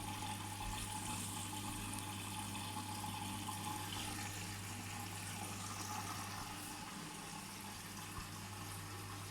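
Bosch washing machine taking in water: a steady rush of water filling the machine, with a steady low hum underneath.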